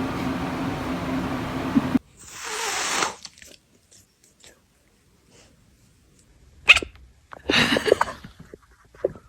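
A dog making a few short, sharp, noisy sounds a second or so apart, after a steady hum that cuts off suddenly about two seconds in.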